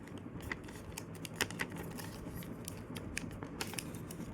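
A sheet of paper being folded and creased by hand, with a reverse fold under way: irregular crisp crinkles and clicks several times a second, the sharpest about a second and a half in.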